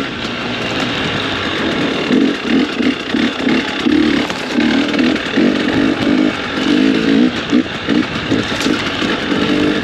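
Motorcycle engine running under load while riding, the revs rising and falling repeatedly with the throttle.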